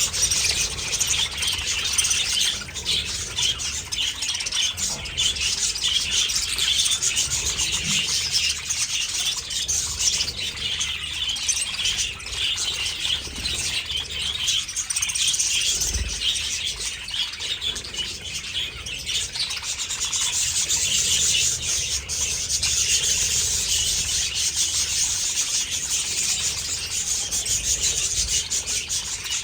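A flock of budgerigars chattering and chirping all at once, a dense, continuous high-pitched twittering.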